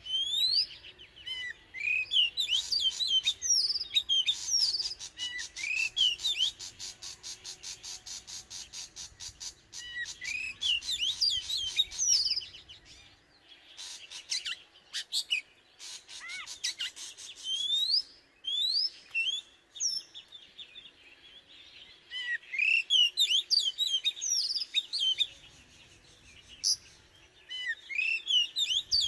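Oriental magpie-robin singing: bursts of quick, rising and falling whistled notes, with stretches of fast ticking between the phrases.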